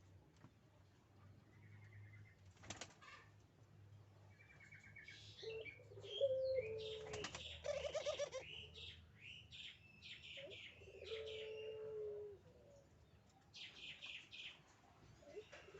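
Male Barbary dove courting: two long, low coos, with spells of wing flapping and fluttering clatter around them.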